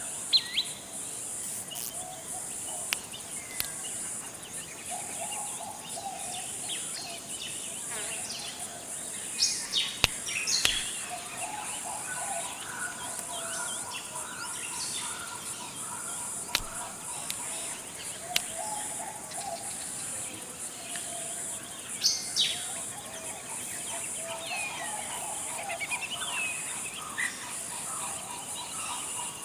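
Forest ambience: several birds chirping and calling in short phrases, the loudest about ten and twenty-two seconds in, over a steady high-pitched insect drone.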